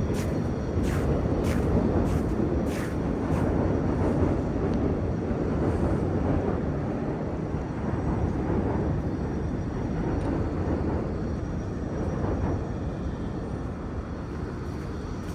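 Footsteps crunching in fresh snow at a steady walking pace for the first few seconds, over a continuous low rumble of city noise.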